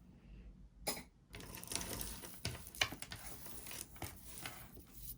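Jewelry and its packaging being handled: a sharp click just under a second in, then light rustling with scattered small clicks.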